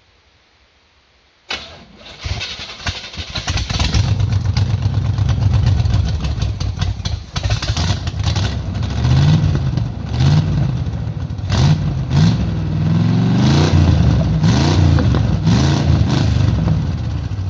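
Old race car's V8 engine catching suddenly about a second and a half in, running rough through open headers, then revved up and down repeatedly.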